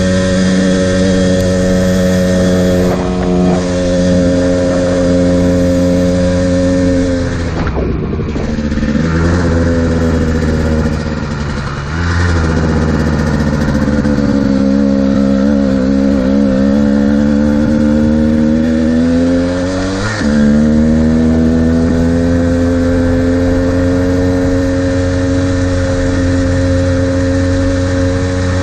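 Modified Kawasaki KDX220R two-stroke dirt bike engine with FMF exhaust, running hard at steady revs on a fast ride. The throttle is chopped and picked up again about a quarter of the way in. The pitch then climbs slowly and changes suddenly about two-thirds of the way in, as at a gear change.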